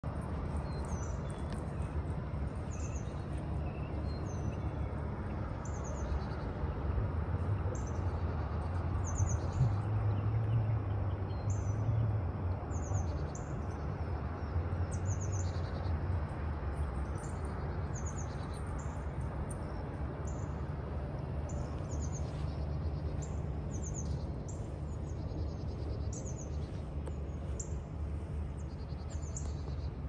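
Birds chirping over and over, short high calls about once a second, over a steady low rumble that grows louder for several seconds in the first half.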